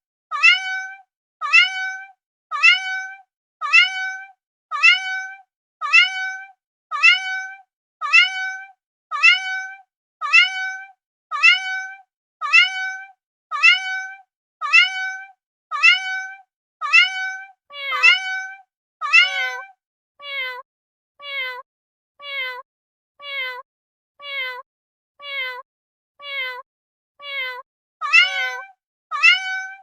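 Domestic cat meowing over and over at a steady pace of about one meow a second, each call identical, with silence between them. Partway through, a lower, falling meow takes over, and the first meow comes back near the end.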